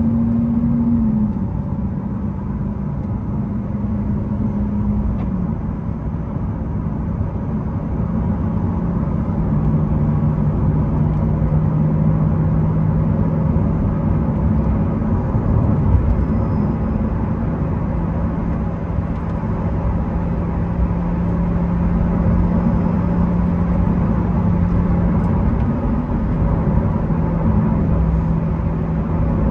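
Lamborghini Aventador SV's V12 engine heard from inside the cabin, cruising at low revs: its drone steps down in pitch with two upshifts in the first few seconds, then holds steady, climbing slightly near the end. The shifts on the newly replaced clutch come through nice and smooth.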